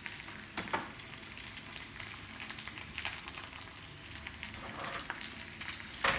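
Sliced potato and mushrooms sizzling in frying pans, with a steady hiss and a few scrapes and knocks of a spatula against a pan. The loudest knock comes near the end.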